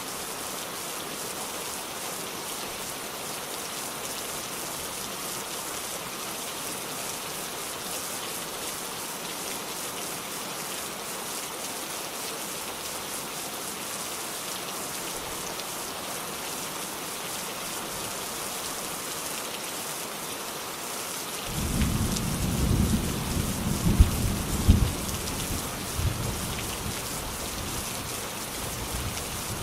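Steady heavy rain falling, an even hiss. About three-quarters of the way through, a roll of thunder comes in as a deep rumble, with two louder peaks close together, and then fades back under the rain.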